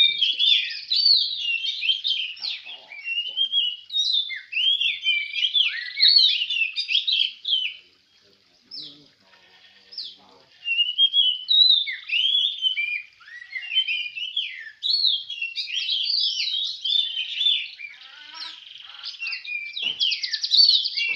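Oriental magpie-robins (kacer) in full song: a rapid, varied stream of whistled phrases, chirps and slurred notes, breaking off briefly about eight seconds in before picking up again.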